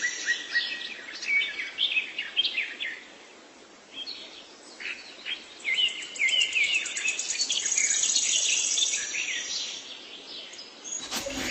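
Songbirds chirping, with short repeated calls that bend in pitch, and an insect trilling steadily in the background for a few seconds past the middle.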